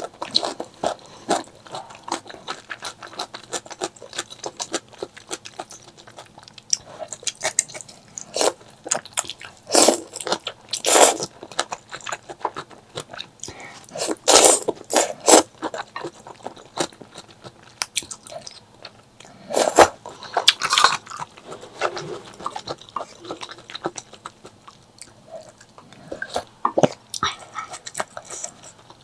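Close-miked eating: steady wet chewing and mouth clicks, with several louder, longer bites or slurps every few seconds.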